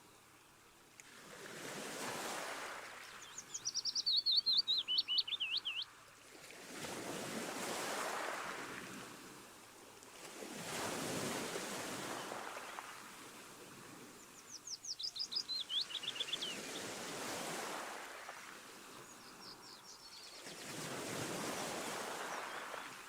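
Sea waves washing ashore, swelling and fading every few seconds. Over them a songbird sings a fast, falling trill three times: loudly about three seconds in, again in the middle, and faintly near the end.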